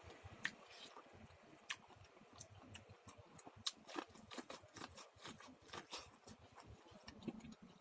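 Popcorn being chewed: irregular crisp crunches and clicks, several a second.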